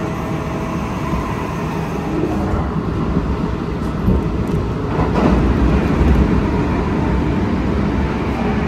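Kintetsu Osaka Line electric train running, heard from inside the car: a steady rumble of wheels on rail with faint steady tones from the traction equipment. There is a single knock about five seconds in, and the sound grows a little louder from about halfway.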